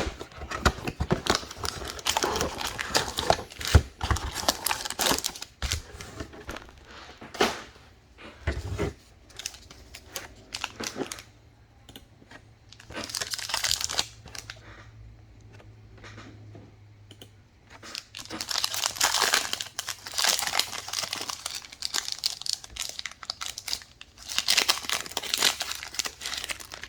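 Trading card box and pack wrappers being torn open and crumpled: irregular spells of crinkling and tearing with short quieter pauses between them.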